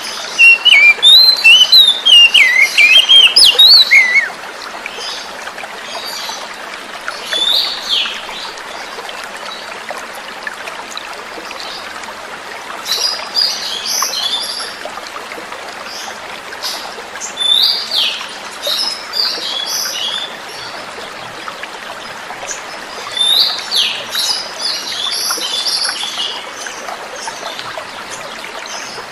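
Oriental magpie-robin (kacer) singing over steadily running water: a loud, rapid warbling phrase in the first few seconds, then repeated clusters of short, sharp whistled notes and chatters every few seconds.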